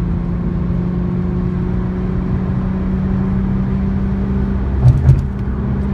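Steady drone of a 2004 Infiniti G35X sedan's V6 engine and road noise, heard inside the cabin at highway cruising speed. Two short thumps about five seconds in.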